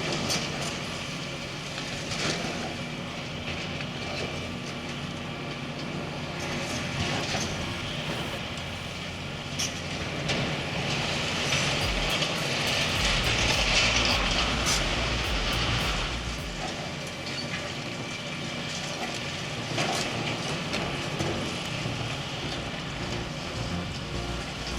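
Heavy demolition machine's diesel engine running steadily, with scattered knocks and clatter. A louder rushing noise swells for a few seconds in the middle.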